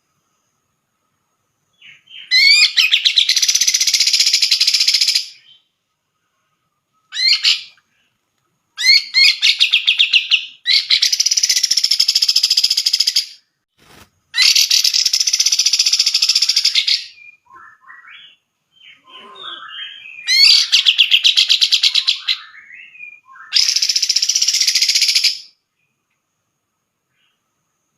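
Grey-cheeked bulbul (cucak jenggot) singing loud phrases of fast chattering notes, each a second or few long, with short silent pauses between them and a few softer, scattered notes in the middle.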